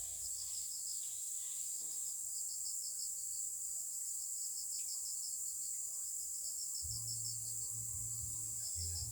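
Crickets chirping in rapid, even pulses over a steady high-pitched insect buzz. A low hum comes in near the end.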